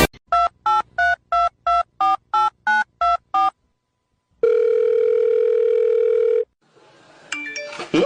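Telephone touch-tone dialing: about ten quick two-tone keypad beeps, then a single ringing tone of about two seconds as the call goes through. A brief sound with a sliding pitch comes near the end.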